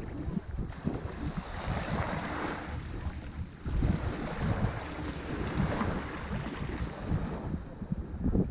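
Ocean waves breaking and washing up a beach, swelling twice, with wind buffeting the microphone.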